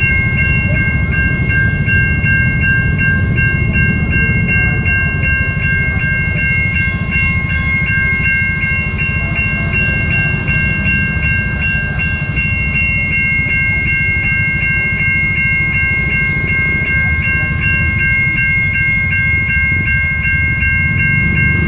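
Electronic level-crossing alarm ringing continuously in a rapid, high repeating tone while a train passes with a low rumble.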